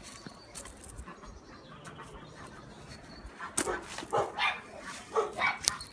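A dog barking several times in quick succession, in the second half after a quiet stretch.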